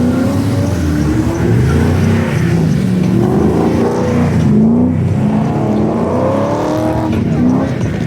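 A car engine accelerating hard, its pitch climbing and dropping back with each of about three upshifts.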